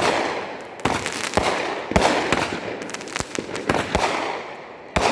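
Fireworks going off: a run of about seven sharp bangs spaced roughly half a second to a second apart, with crackling filling the gaps between them.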